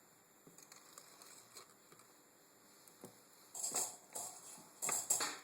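Rustling and scraping from hands handling heavy monofilament line and small plastic tackle, with faint scratches at first and two louder bursts near the end.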